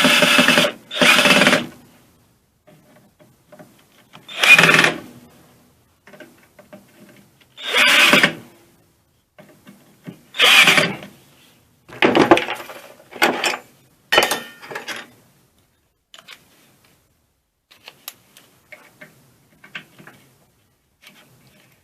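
A handheld power tool is run in short bursts of half a second to a second, about six times, after a longer run that stops near the start. Faint clicks and knocks of small parts follow.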